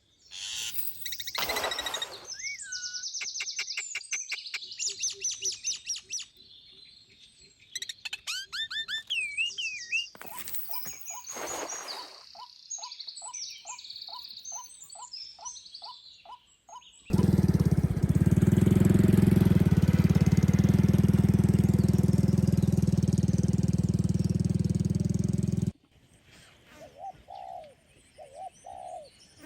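Assorted small birds chirping, trilling and whistling. About seventeen seconds in, a loud, steady rushing noise with a heavy low rumble cuts in, and it cuts off abruptly about nine seconds later. A dove cooing follows near the end.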